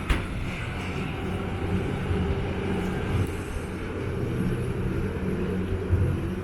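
An engine running steadily, with a sharp click right at the start.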